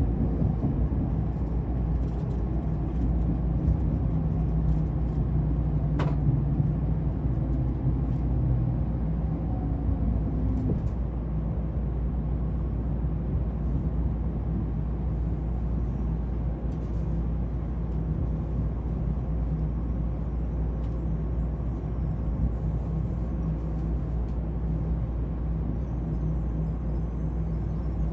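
Train running, heard on board: a steady low rumble, with a whine that falls in pitch over roughly the first ten seconds and a single sharp click about six seconds in.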